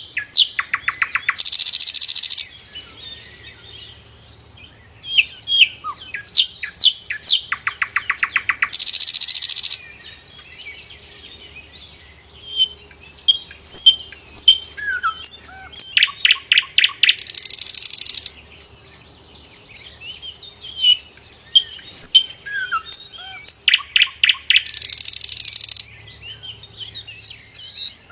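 Sikatan londo, a flycatcher, singing: one song phrase repeated about every eight seconds, each a run of quick high chirps and short downslurred whistles ending in a fast dry trill with a buzzy rattle.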